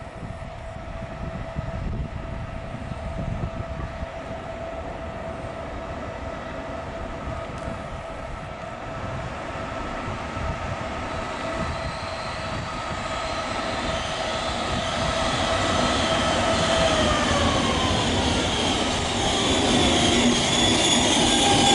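Train drawing in, getting steadily louder over a low rumble. A steady whine slides down in pitch about three quarters of the way through, and high-pitched wheel squeal sets in near the end.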